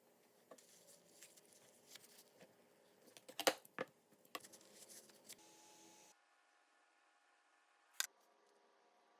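Scattered light clicks and knocks, as of small hard parts being handled, loudest about three and a half seconds in, with one more sharp click near the end.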